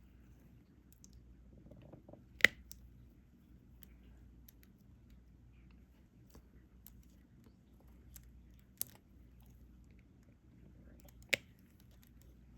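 Diamond painting: a small stylus picking up resin drills and pressing them onto the canvas, with soft scattered clicks and crackles and three sharper clicks, the loudest about two and a half seconds in.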